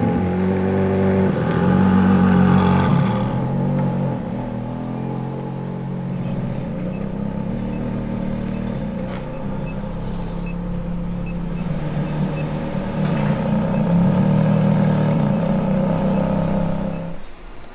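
Ferrari F430's V8 engine running at steady revs, swelling louder near the start and again near the end, then cutting off abruptly.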